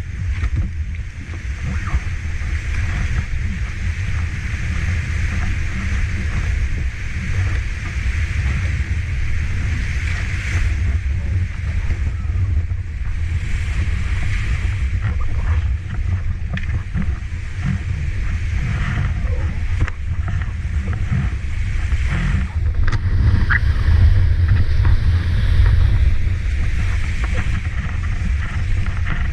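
Large waterfall falling steadily, a continuous rushing noise with a strong deep rumble underneath.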